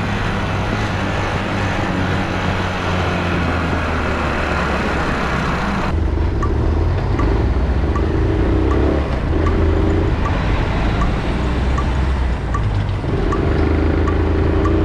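Motorcycle engine running on the move, a steady low drone. About six seconds in the sound changes abruptly and the engine note then rises and falls as it is ridden, with a light tick about twice a second.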